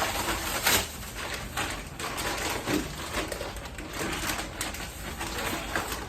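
Irregular rustling and clunking of grocery packaging being handled while a refrigerator is stocked.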